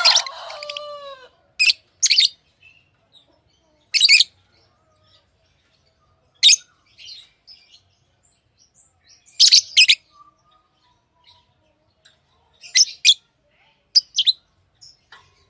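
Lovebirds chirping: short, shrill single and paired chirps a second or two apart, with a drawn-out falling call in the first second.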